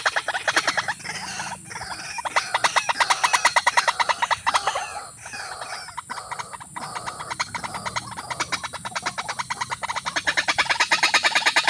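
Bird calling in a fast, steady run of short repeated notes, easing briefly about halfway through before picking up again.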